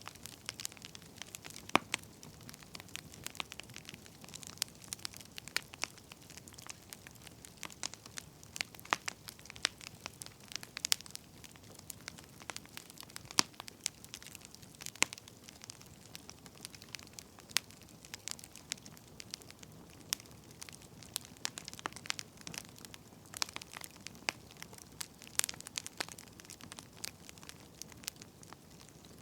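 Wood fire burning, with irregular crackles and pops over a low steady hiss.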